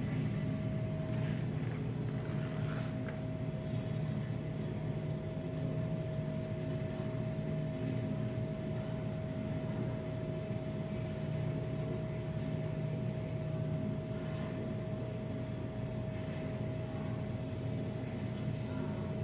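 Steady low mechanical hum with a constant high-pitched whine over it, unchanging throughout, with a few faint brief rustles.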